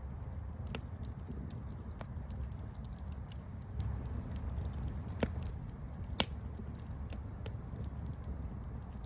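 Campfire burning with a steady low rumble and scattered sharp crackles and pops, two louder pops a little past the middle.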